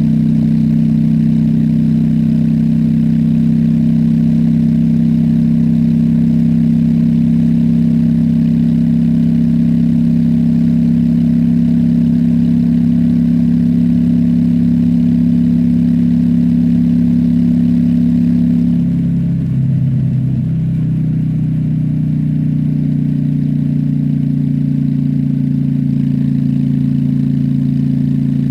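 Honda Shadow V-twin motorcycle engine running steadily while riding. About two-thirds of the way in, its note drops briefly, then settles at a lower pitch.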